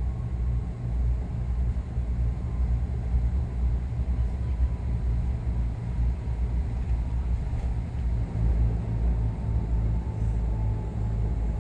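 Cabin drone of a De Havilland DHC-8-300's twin turboprop engines and propellers: a steady low rumble with a faint tone that slowly falls in pitch.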